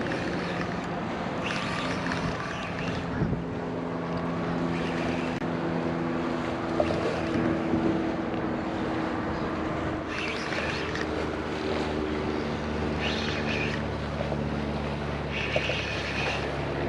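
An engine running steadily, its low tones drifting slightly in pitch, with wind noise on the microphone.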